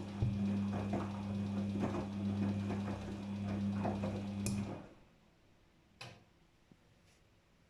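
Daewoo DWD-FT1013 washing machine running through its rinse, with a steady motor hum and repeated mechanical swishes. About four and a half seconds in, a click comes and the machine stops. A further click follows about a second and a half later.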